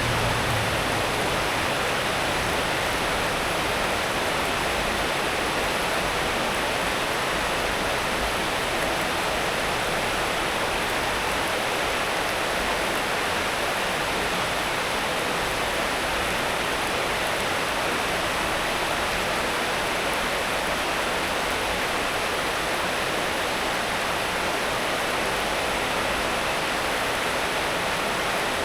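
Steady rain falling, a dense even hiss with no distinct drops or breaks.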